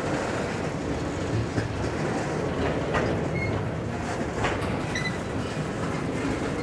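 Freight train cars rolling past, a string of tank cars and a covered hopper, rumbling steadily with wheels knocking over the rail joints. A few brief, faint high wheel squeals sound near the middle.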